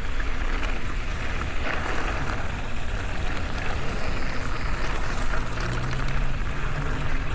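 Mountain e-bike on a dirt trail: a steady rush of wind on the microphone and rumble of the tyres over the ground, with a low steady hum joining in for the last two seconds or so.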